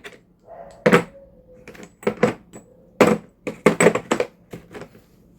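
Metal hand tools being handled: a dozen or so short, irregular clicks and knocks of hard parts against each other.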